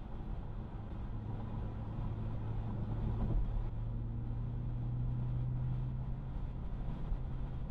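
Car driving along: a steady engine hum with road noise, the engine note growing a little stronger about four seconds in, and a short knock a little after three seconds.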